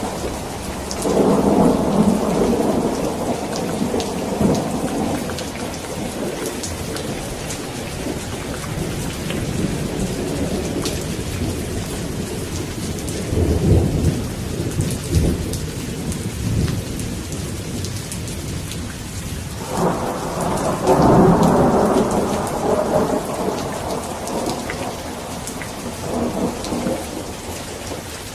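Steady rain falling, with thunder rolling three times: about a second in, around the middle, and again about two-thirds of the way through.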